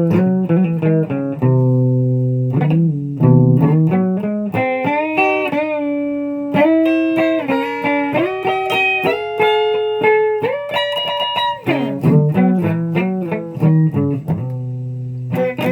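Guitar music: plucked notes, with low bass-register notes at the start and near the end and a higher melodic run of held notes in the middle.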